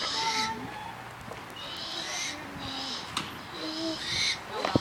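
An owl giving a series of short, raspy, high-pitched calls, about four of them, with a sharp click a little past three seconds in.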